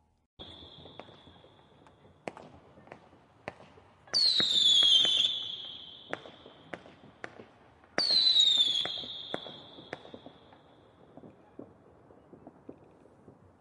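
Fireworks: scattered sharp crackling pops, with two loud whistling fireworks about four and eight seconds in, each whistle dropping quickly in pitch and then holding and fading over a couple of seconds.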